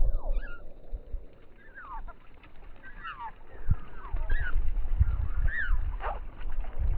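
Small birds at a feeder giving repeated short chirps that sweep in pitch, coming about once or twice a second from about two seconds in. Low thumps and rumble run underneath.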